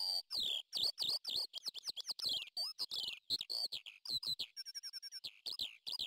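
Small birds chirping: a quick run of short, high, downward-sweeping notes, about three or four a second, with a brief rapid trill from a second voice about five seconds in.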